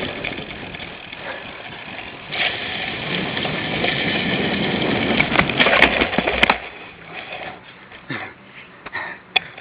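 Cyclocross bike ridden hard over rough ground, picked up by a handlebar-mounted camera: a dense noise of tyres and frame with scattered knocks. It grows louder about two seconds in, has two sharp knocks around six seconds, and eases off after about seven seconds.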